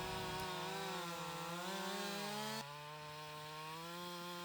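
Chainsaw engine running under load in a cut, its pitch wavering and sagging as the chain bites. About halfway through it changes abruptly to a lower, steadier note.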